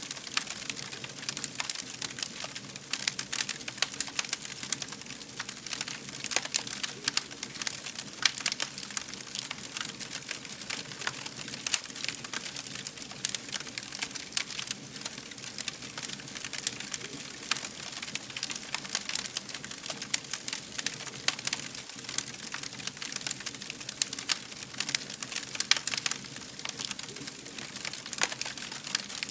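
Wood fire crackling: a dense, irregular run of small pops and snaps over a soft steady hiss.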